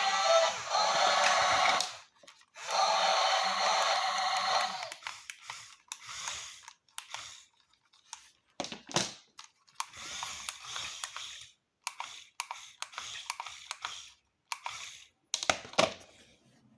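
Music for the first few seconds, then irregular clicks, taps and short whirring bursts from the small motors and moving parts of RC model excavators at work.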